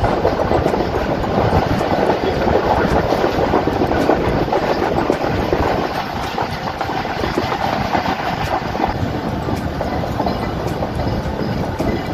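Passenger train running at speed, heard on board: a steady rumble of the coaches with the wheels clicking over rail joints. The rumble eases a little about halfway through.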